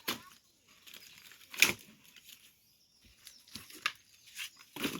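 Sticks and small pieces of firewood being handled and laid onto a small bonfire pile: a series of brief rustles and knocks, the loudest about a second and a half in.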